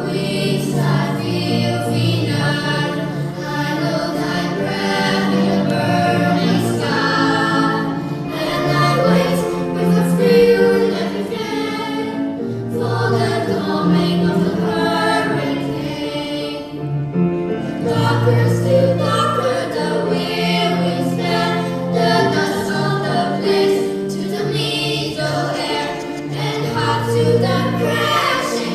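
Small group of children from a children's choir singing a song together.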